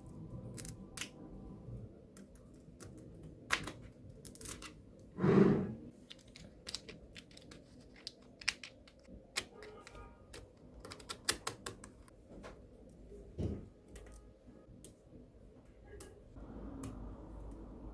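Small magnetic balls clicking sharply as they snap together, in an irregular patter of single clicks and quick runs. About five seconds in comes a louder, brief low thump.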